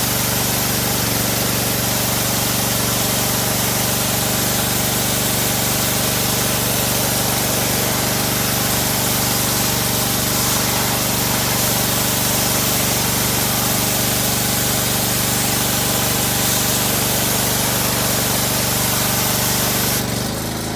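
Honda gas-engine pressure washer running steadily while its wand sprays a hissing jet of water through a clogged radiator. Near the end the spray stops and the engine keeps running, its note shifting as the load comes off.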